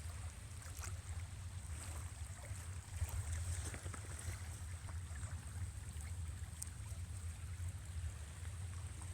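Flood-swollen river rushing steadily, under a fluctuating low rumble of wind buffeting the microphone.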